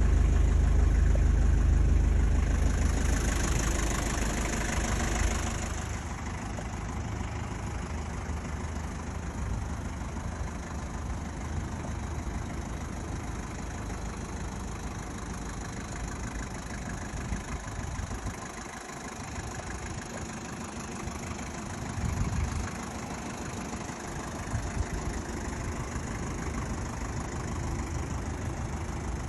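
Mazda R2 four-cylinder diesel engine idling steadily. It is loudest for the first few seconds, and there is a brief hiss about three to six seconds in.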